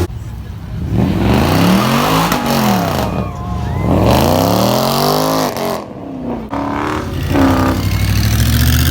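Car engine revved three times, each rev climbing in pitch and falling back, then settling to a steady run near the end.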